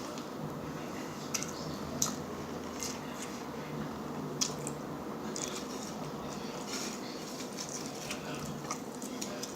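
Close-up eating sounds: wet chewing and mouth noises, with a few sharp clicks, the clearest about a second and a half, two, and four and a half seconds in.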